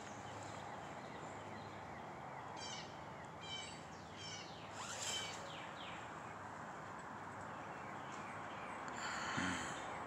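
Quiet outdoor background with a few faint bird chirps, in short series between about two and a half and five seconds in, and a brief rustling noise near the end.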